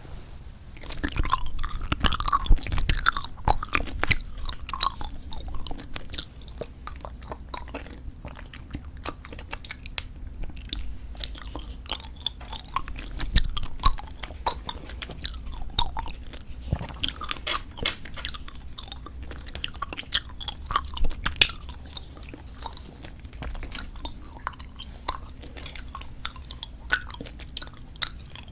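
Close-miked chewing of squeeze-tube bubblegum: a steady run of wet, irregular clicks and smacks from the mouth, busier in a few stretches.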